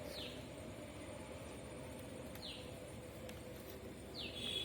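A bird calling: a short downward-sliding note about every two seconds, three times, the last followed by a longer held note, over a faint steady background hum.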